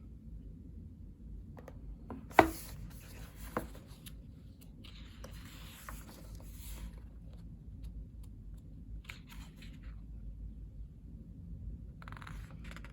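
Paper rustling and rubbing as the pages of a photobook are handled and turned, with a sharp tap about two and a half seconds in and a smaller one about a second later.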